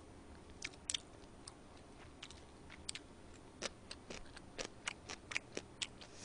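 Close-miked, closed-mouth chewing of kimchi stir-fried pork: faint, irregular wet mouth clicks, sparse at first and coming several a second in the second half.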